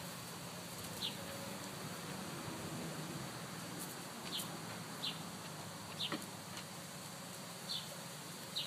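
Faint short high chirps from a bird, about seven at irregular intervals, over a quiet steady outdoor hiss.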